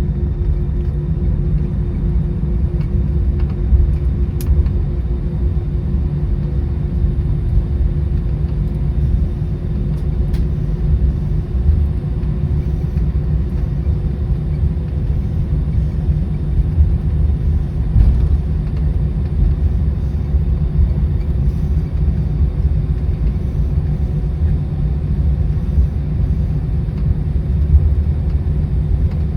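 Airbus A319 cabin noise while taxiing: a steady low rumble of the rolling airliner with a constant hum from its idling engines.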